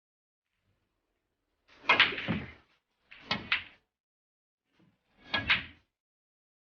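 Knocking on a door: three short rounds of two or three quick knocks, with pauses between them.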